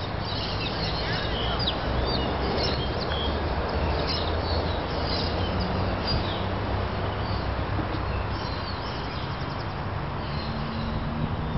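Small birds chirping repeatedly over a steady low rumble of outdoor background noise; the chirps thin out after about six seconds.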